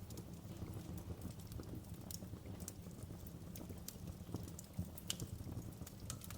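Wood fire burning in a fireplace: a low steady rumble of flames with irregular sharp crackles and pops.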